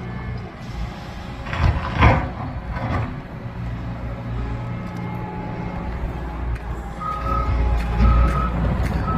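Heavy demolition machine's engine running with a steady low rumble, with a couple of harsh crunches about two seconds in. Near the end a reversing beeper starts, beeping about once a second.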